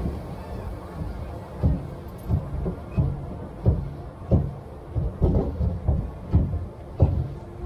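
Roller coaster train rolling along its track with a rumble and a run of low clunks, about one every 0.7 seconds.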